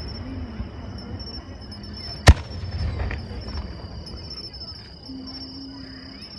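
A single loud, sharp firework bang about two seconds in, over a steady high-pitched chirring of insects.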